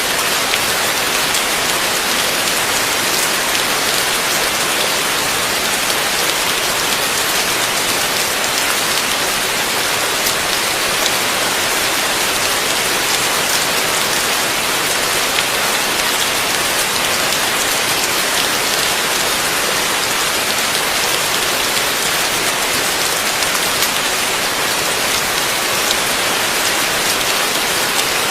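Heavy rain falling steadily, a dense even hiss of drops hitting surfaces with fine ticks of individual drops throughout.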